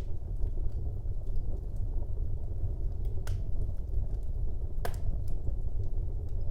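Wood fire burning in a fireplace: a steady low rumble of the flames with scattered small crackles. Two sharp pops stand out, a little over three seconds in and just before five seconds.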